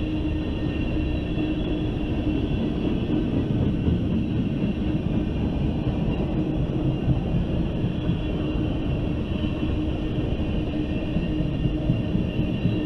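A freight train of loaded ethanol tank cars rolling past: a steady rumble of wheels on rail, unbroken throughout.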